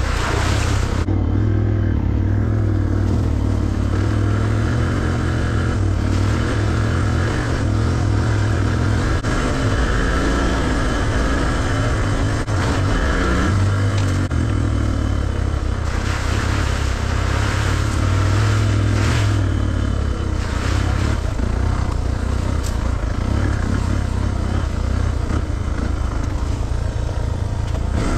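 Suzuki DR650's single-cylinder four-stroke engine running steadily under way as the motorcycle is ridden along a rough dirt trail.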